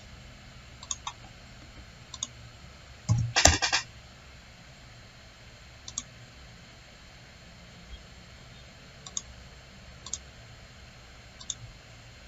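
Computer mouse clicks at a desk, scattered and often in quick pairs. A louder, rapid clatter of several strokes comes about three seconds in.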